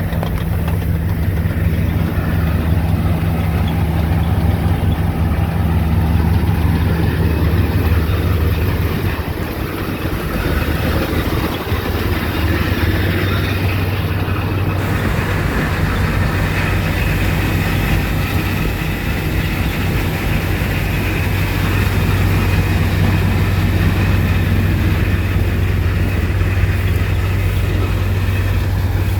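Kartar tractor's diesel engine running steadily at high level; its note changes about ten seconds in, then holds steady again.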